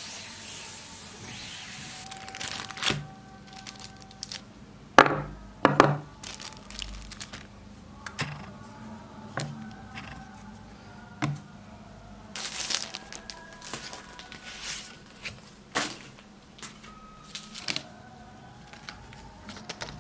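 Scattered sharp knocks and clicks with some crinkling, from small objects being handled and set down. The loudest knocks come about five to six seconds in.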